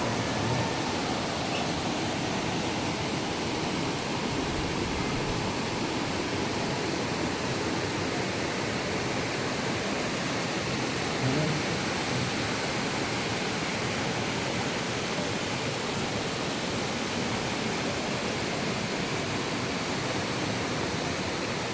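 Steady rushing water of a waterfall, an unbroken hiss-like roar that does not change.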